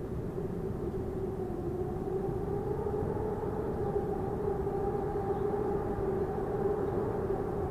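Strong wind blowing, a steady rushing noise with a held low moaning tone and a fainter higher tone above it.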